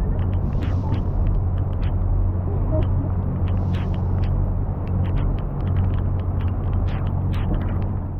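Steady low drone of a tour boat's engine, with rain and scattered sharp ticks of raindrops striking close by.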